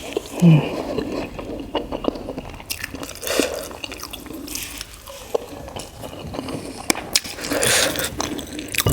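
Close-up wet eating sounds: chewing and soft smacking of sambar-soaked idli, with a brief low hum about half a second in.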